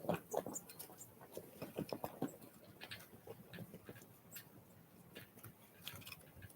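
Small wild birds at a feeder: irregular pecking taps and scratchy clicks, with a few faint, short, high call notes.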